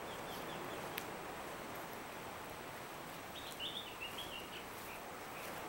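Steady outdoor background noise with a small bird chirping, a short run of quick high notes a little past halfway. A single faint click about a second in.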